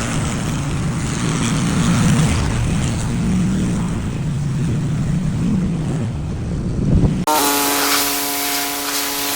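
Old Ford F100 pickup's engine running with an uneven, wavering low rumble. It cuts off after a knock about seven seconds in and gives way to a steady machine hum.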